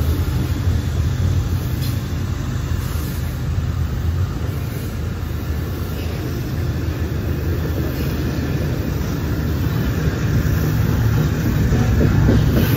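Double-stack container freight train's well cars rolling past close by: a steady rumble of steel wheels on rail. A locomotive's low diesel hum fades out in the first second.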